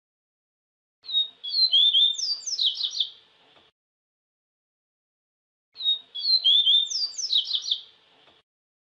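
Papa-capim, a Sporophila seedeater, singing two phrases of rapid, high twittering notes with clean silence in between.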